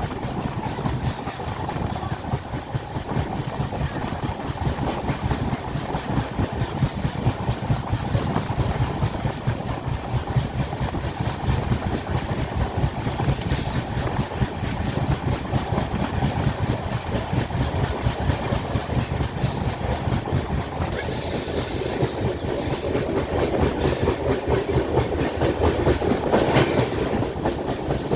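Passenger train running on the rails: a steady rumble with the rhythmic clickety-clack of the wheels over the rail joints. A few short high hissing sounds come through about two-thirds of the way in, one with a thin high tone.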